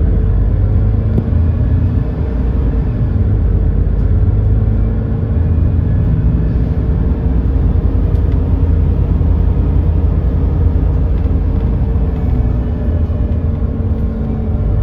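Natural-gas GX12P engine of an Edison Motors Smart 110G city bus running under way, heard from inside the cabin as a steady deep rumble whose pitch shifts gently.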